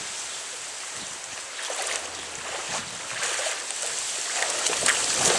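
Water splashing and sloshing around a small kayak in a pond, with irregular splashes that grow louder and more frequent toward the end.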